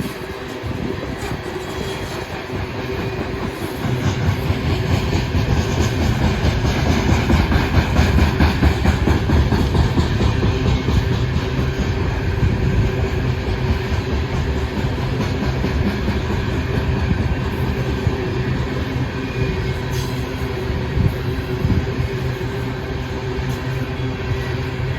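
Freight train rolling past on the rails, a steady rumble that grows heavier about four seconds in.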